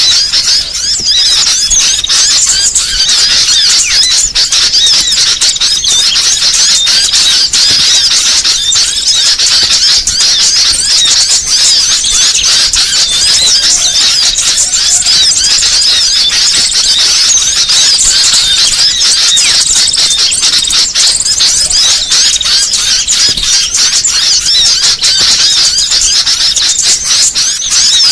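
Dense, unbroken chorus of many small birds chirping and squeaking over one another, loud and high-pitched: a noisy small-bird lure call recording of the kind played to attract small songbirds.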